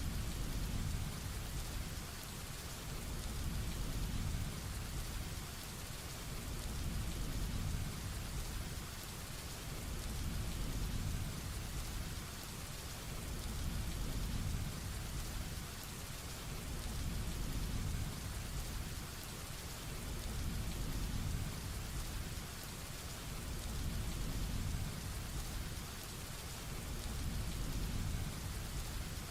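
Heavy rain falling steadily, under a low thunder rumble that swells and fades about every three to four seconds.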